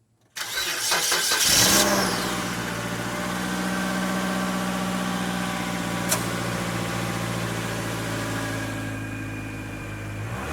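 A 2003 Mazda Protege's four-cylinder engine on a cold start: it catches almost at once, runs loudest for about a second and a half, then settles to a steady idle. A single sharp click about six seconds in.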